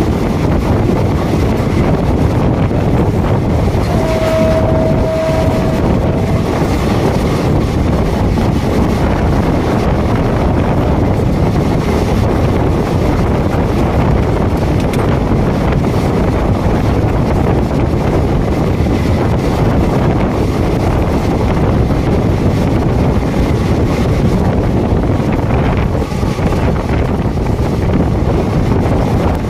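Passenger train running, a steady rumble mixed with wind buffeting the microphone. A single steady tone sounds for about two seconds, about four seconds in.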